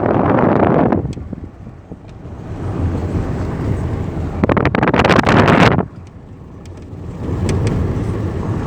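Car on the move: steady road and wind rush that falls away about a second in, builds again, and peaks in a harsh crackling rush around the middle before dropping suddenly and settling back to a steady level.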